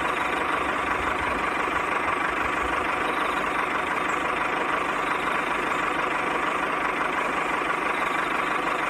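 Small electric motor running steadily, a constant whirring with a thin, steady whine.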